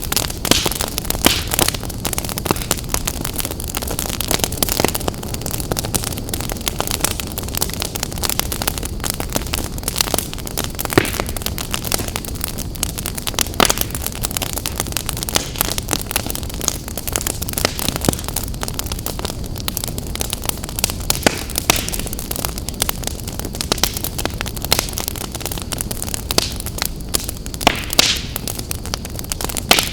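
Wood fire burning in a fireplace, crackling and popping at irregular moments over a steady low rush of flames.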